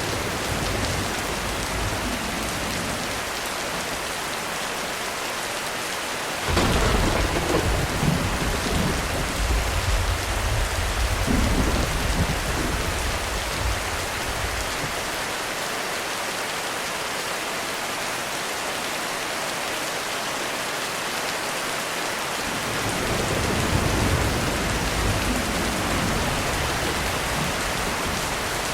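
Heavy rain falling steadily. About six seconds in, a sudden loud thunderclap breaks and rolls on as rumbling thunder for several seconds. A softer roll of thunder swells and fades near the end.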